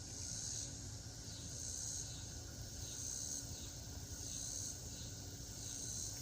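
Night insect chorus: a high-pitched trill that swells and fades in a steady rhythm, about once a second.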